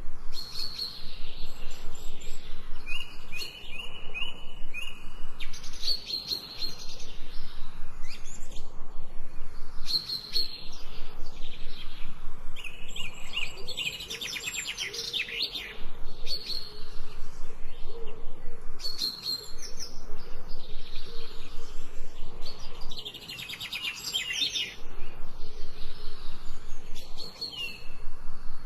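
Birds chirping and singing, with repeated short calls and trills from several birds overlapping.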